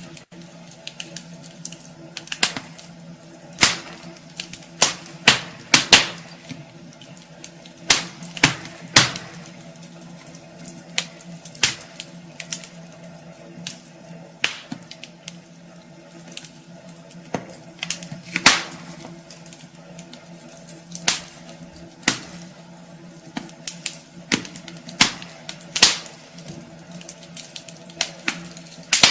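Wood fire burning in a fireplace: logs crackling and popping in sharp, irregular snaps, several a second at times, over a steady low hum.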